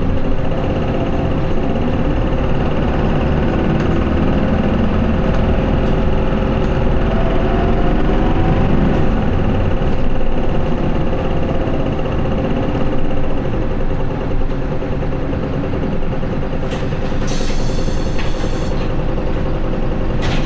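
Interior running sound of an Isuzu Erga city bus (QDG-LV290N1) with its 5.2-litre four-cylinder turbodiesel under way, the automatic held in fourth gear in POWER mode; the engine note swells and eases in the middle. A hiss of air comes in briefly near the end.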